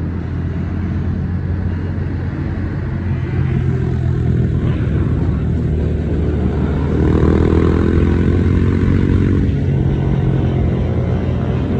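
Small motorcycle engines running, with one revved up so its pitch climbs and wavers about seven seconds in, then eases off.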